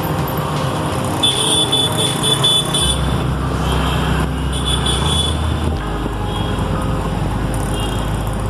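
City road traffic: a steady mix of passing car and motorbike engines and tyre noise, with a few short high tones.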